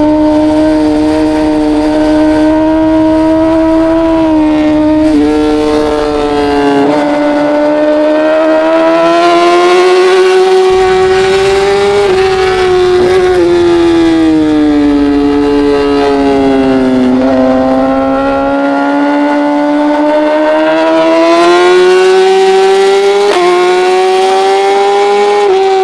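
Racing motorcycle engine held at high revs, its pitch climbing and falling slowly as the bike accelerates and slows, with quick jumps in pitch at gear changes several times, over a low wind rumble.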